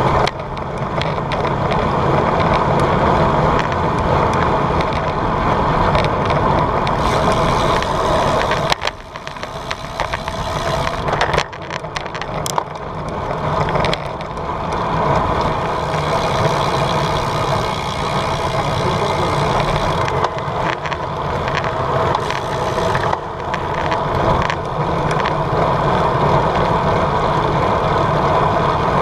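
Steady riding noise from a bicycle: wind buffeting the GoPro microphone over the rumble of tyres rolling on the road. It eases off for a few seconds near the middle, where a couple of sharp clicks come through.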